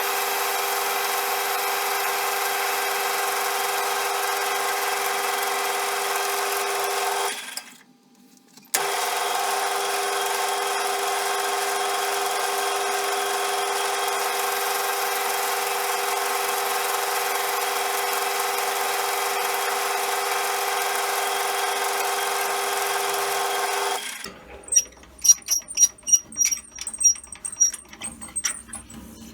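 CJM360 benchtop metal lathe running with a steady, pitched whine; it drops out for about a second and a half about 7 s in, resumes abruptly, and stops about 24 s in. A string of sharp metallic clicks with brief high ringing follows.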